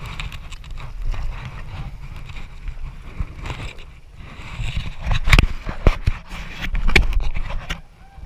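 Rushing river water around a raft, with wind buffeting the microphone. A few sharp knocks come about five to seven seconds in, and the sound drops quieter just before the end.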